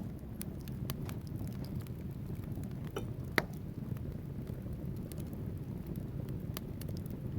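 Wood logs burning in a fireplace: a steady low rumble of flames with scattered crackles and one louder pop about three and a half seconds in.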